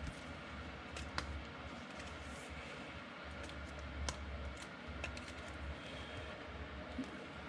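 Quiet, scattered clicks and taps of trading cards and a card pack being handled, over a low hum that comes and goes.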